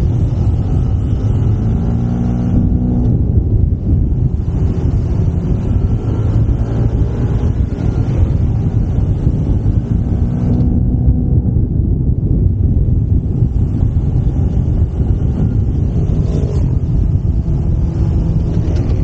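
Yamaha SMAX 155 scooter's single-cylinder engine running under way, its pitch rising and falling as the throttle changes, under a heavy low rumble of wind on the microphone.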